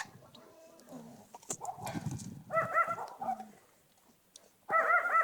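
Puppy making quick runs of short, high-pitched yelping whines: one run in the middle and another near the end, with a brief rustle just before the first.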